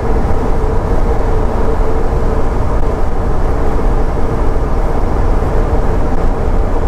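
Road and engine noise inside a pickup truck's cab while driving: a steady low rumble with a steady hum over it that fades about halfway through.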